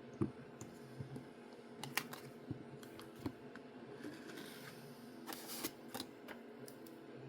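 Light clicks and taps of nail-stamping tools being handled on a table, with a couple of short scrapes about five seconds in.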